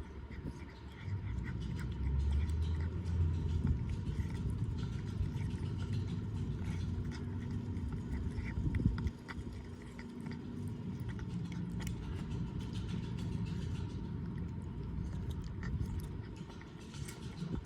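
A cat chewing and gnawing on a pork rib, with scattered small crunching clicks, over a steady low rumble that is loudest about a second to four seconds in.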